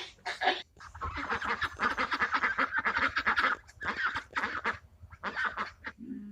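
Ducks quacking in quick, rapid runs of quacks, densest through the middle, with shorter bursts near the end.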